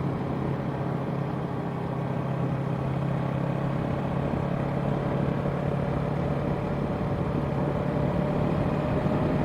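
Yamaha parallel-twin sport bike engine running steadily while riding, with wind rushing over the helmet microphone. The engine pitch rises slowly toward the end as the bike gains speed.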